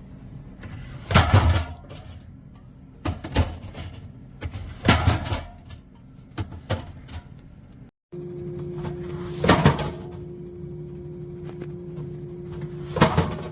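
Drink cans knocking and rolling in a rolling soda can organizer, six separate clunks a second or more apart. A steady hum runs under the second half.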